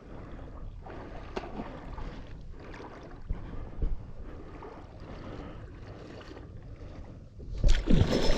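Shallow floodwater sloshing and swishing around the legs of someone wading, with wind buffeting the microphone and a few small knocks; a louder rush comes near the end.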